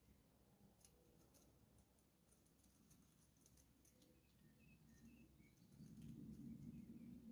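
Near silence with a few faint, short bird chirps and light clicks. A low rumble rises near the end.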